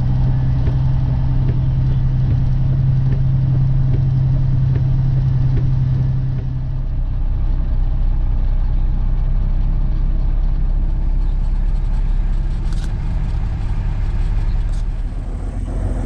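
Peterbilt 359 semi-truck engine running with a steady drone and low rumble. About seven seconds in, the drone drops away and leaves a lower, rougher rumble as the truck comes off the throttle.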